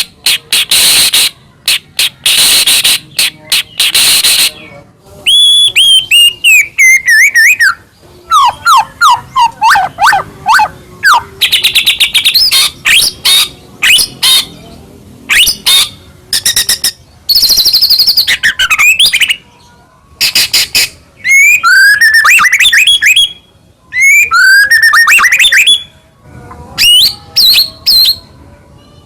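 White-rumped shama (murai batu) singing loudly in full, varied song. Harsh rasping bursts give way to whistled phrases that slide down in pitch, then fast runs of repeated notes and trills, with short pauses between phrases.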